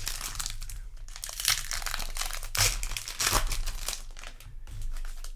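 Crinkling and tearing of a Magic: The Gathering play booster pack's foil wrapper as it is opened and handled, an uneven run of rustling that is loudest about halfway through.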